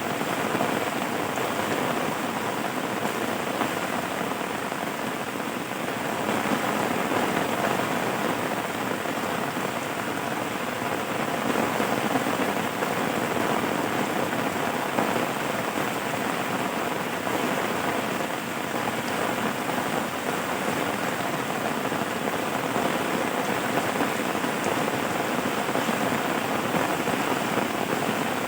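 Steady rain falling on a surface, a dense, even patter.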